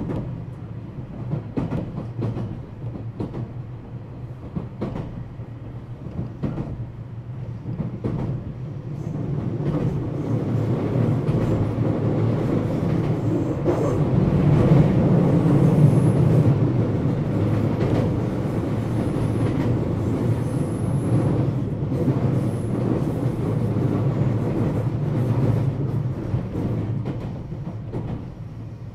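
Running sound of a JR West 227 series electric train, heard from inside motor car KuMoHa 227-68 while cruising between stations. A steady rumble of wheels and running gear, with scattered clicks over rail joints, grows louder about ten seconds in.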